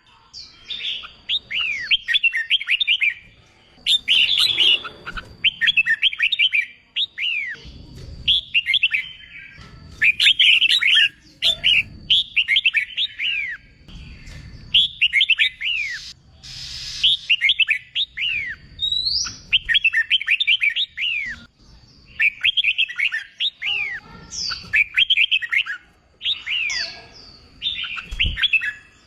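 Red-whiskered bulbul singing contest-style song: short, rapid phrases of bright, sharply slurred chirps, repeated every second or two with brief pauses between.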